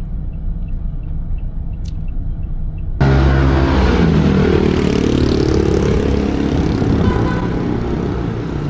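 Road traffic: a steady low rumble, then about three seconds in a sudden jump to louder engine noise as a motor vehicle passes close, its engine pitch gliding down and back up.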